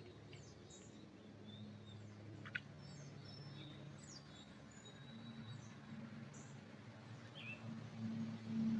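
Small birds chirping with short, high calls and thin whistles scattered through, over a faint, steady low hum. There is one sharp click about two and a half seconds in.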